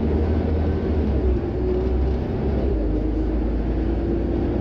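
Scania OmniCity city bus running, a steady low engine drone with a faint whine above it that wavers slightly in pitch.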